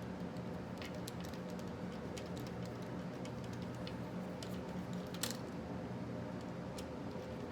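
Scattered light clicks and taps of small parts being handled while refitting RC truck shocks, one a little sharper about five seconds in, over a steady background hum.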